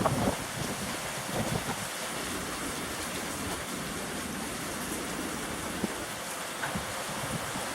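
Steady rain falling, heard as an even hiss, during a windy rainstorm.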